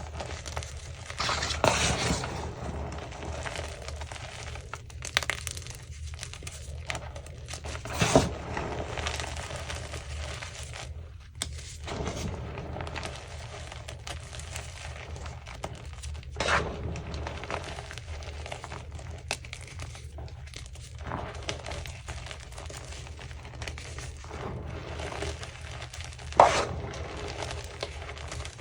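Crunchy chunks of Easy Grip gym chalk being crushed and crumbled: continuous gritty crunching and crumbling, with four louder sharp crunches spread through, the loudest near the end.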